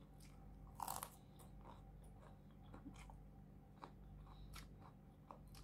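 A person chewing a mouthful of food, with many small crunchy clicks and one louder crunch about a second in.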